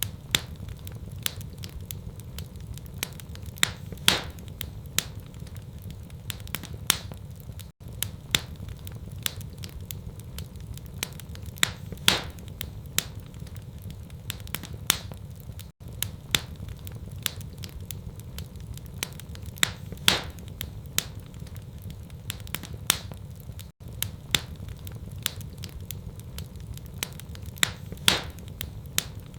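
Wood fire crackling and popping in a fireplace, with sharp irregular pops over a steady low rumble. The sound drops out briefly about every eight seconds.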